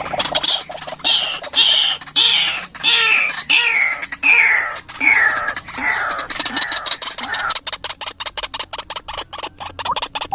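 White-breasted waterhen calling: a run of harsh notes about two a second, each sliding down in pitch, changing about six seconds in to a fast rattling stutter.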